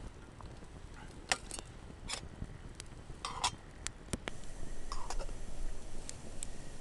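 Metal camp gear being handled: a series of sharp clinks and taps, some in quick pairs, a few ringing briefly.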